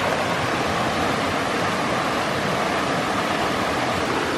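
River water rushing, a steady even wash of noise.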